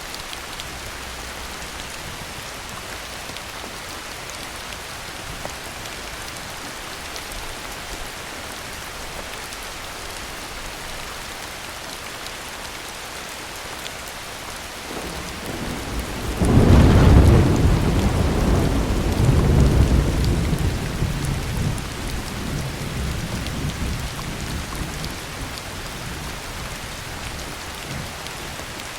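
Steady heavy rain hiss, with a long roll of thunder that swells about halfway through, is loudest a couple of seconds later and rumbles away over about ten seconds.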